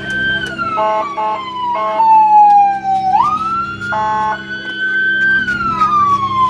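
Emergency vehicle siren wailing, going through about two cycles: each rises quickly, holds, then slides slowly down. Several short horn blasts sound over it about a second in and again around four seconds in, with a steady engine hum underneath.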